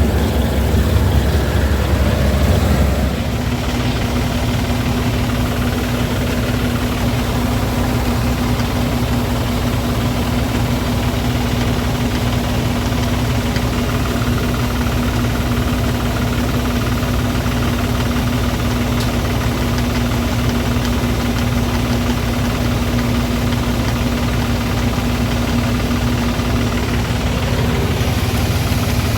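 Diesel tractor engine running steadily with an even hum; about three seconds in, its deepest rumble drops a little and then holds steady.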